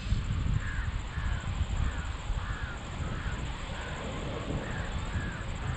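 A crow cawing over and over, about two caws a second, over a steady low rumble.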